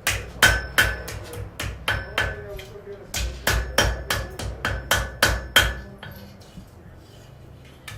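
Blacksmith's hammer striking metal on an anvil in a steady run of about three blows a second, each leaving a short metallic ring. The blows stop about six seconds in.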